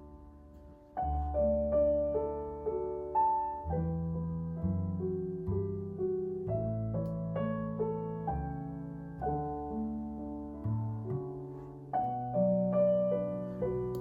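Calm solo piano background music: notes and chords struck one after another and left to fade. It is quiet for a moment before the playing resumes about a second in.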